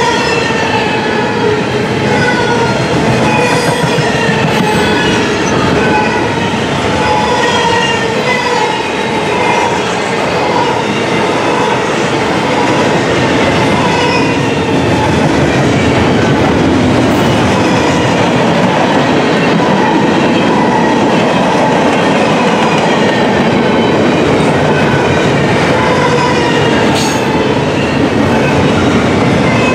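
Double-stack intermodal well cars of a freight train rolling past in a loud, steady rumble of wheels on rail. Short squealing tones from the wheels keep coming at several pitches, with an occasional click.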